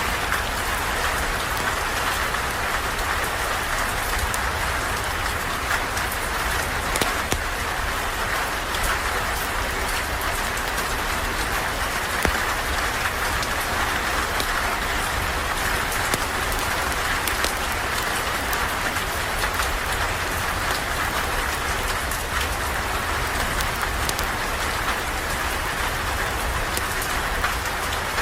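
Steady rain falling, an even hiss with scattered small sharp ticks of drops striking.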